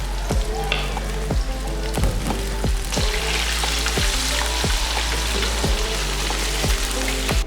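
Fish frying in hot oil, a steady sizzle that gets louder about three seconds in, over background music with a steady beat.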